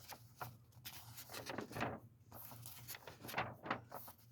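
Magazine pages being handled and turned, a series of short papery rustles and scrapes, over a faint steady hum.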